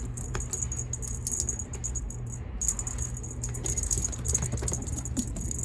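A cat toy jingling and rattling in quick, irregular little shakes over a steady low hum.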